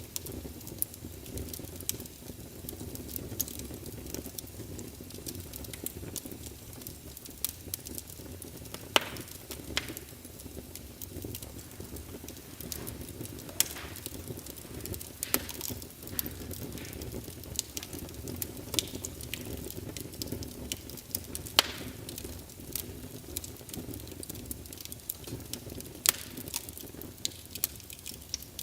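Wood fire in a fireplace burning with a steady low rumble and frequent crackling, with sharper loud pops every few seconds.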